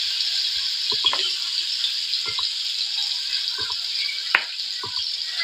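Marinated chicken tikka pieces sizzling as they fry in hot oil in a karahi: a steady hiss. A few spoon clinks and taps are heard over it, the sharpest about four seconds in.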